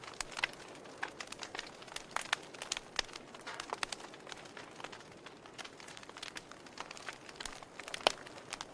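Campfire crackling: irregular sharp pops and snaps over a faint hiss, the loudest snap about eight seconds in.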